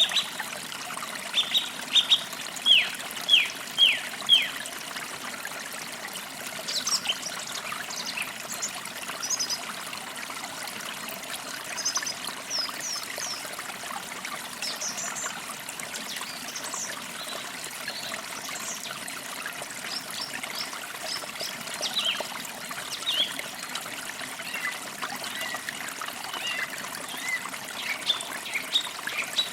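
Forest creek trickling steadily, with small birds chirping over it. A quick series of loud downward-sweeping chirps comes in the first few seconds, then lighter, higher chirps scatter through the rest.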